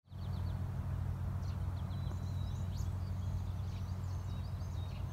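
Small birds chirping and trilling, with short rising and falling whistled notes and one held whistle, over a steady low rumble.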